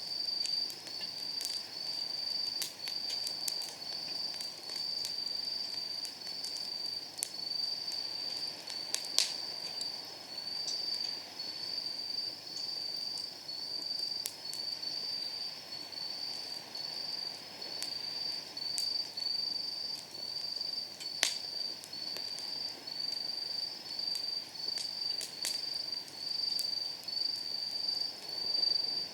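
Night insects chirping steadily in a high, even pulse a little over once a second, over a wood fire crackling with scattered small pops. Two louder snaps from the burning wood come about a third of the way in and about two-thirds of the way in.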